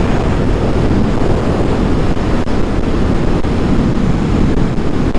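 Steady wind noise buffeting a motorcycle rider's microphone at road speed, mixed with the motorcycle's running and road noise.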